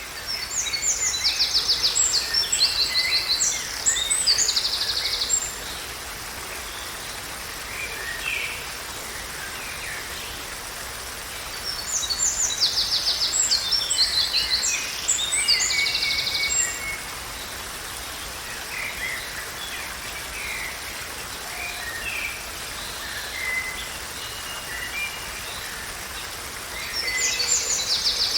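A songbird singing a loud, rapid trilled phrase lasting several seconds, repeated about every twelve seconds, with fainter scattered chirps from other birds in between. A steady hiss runs underneath.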